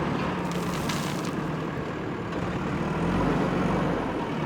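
Diesel engine of a JCB backhoe loader running steadily, with a brief hiss about half a second in.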